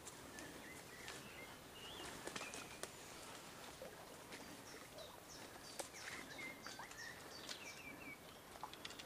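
Faint birdsong: many short chirps and whistles at several pitches throughout, over a quiet outdoor background, with a few faint clicks.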